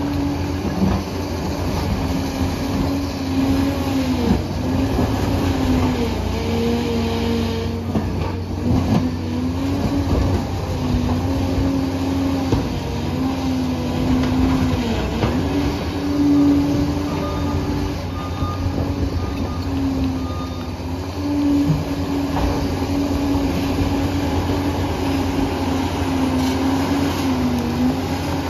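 Liebherr PR 746 crawler dozer working. Its diesel engine runs with a steady low drone under a whine that keeps rising and falling in pitch as the load changes, with a few scattered knocks.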